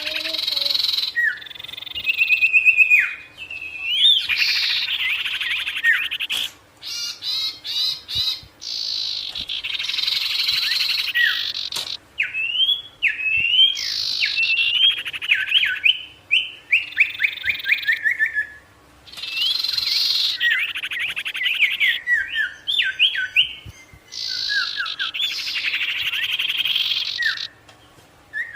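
A songbird that Indonesian keepers call the sirtu singing at full song: varied whistled phrases, chattering bursts and runs of fast repeated notes, with short pauses between phrases.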